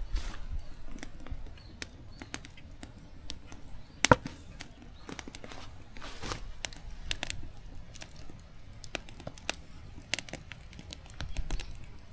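Wood campfire crackling and popping: irregular sharp snaps, with one loud pop about four seconds in.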